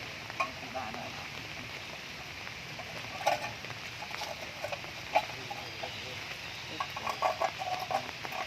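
Farm animals making short, repeated calls, thickest near the end, over a steady hiss of rain, with scattered sharp clicks.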